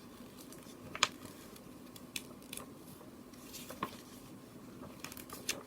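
A picture book's paper pages being handled and turned: a sharp click about a second in, then a few softer taps and rustles, over a steady low hum.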